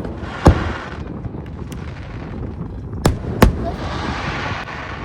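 Aerial fireworks shells bursting: one loud bang about half a second in, then two more in quick succession about three seconds in, with fainter pops between and a hissing crackle after the second pair.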